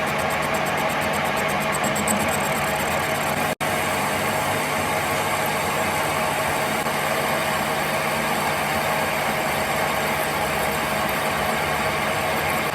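A workshop machine running steadily with a constant hum, broken by a brief dropout about a third of the way in.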